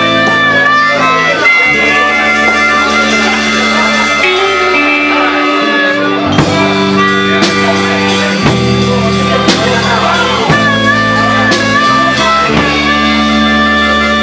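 Live rockabilly band playing, with guitar prominent over low notes that change every second or two and a few sharp hits.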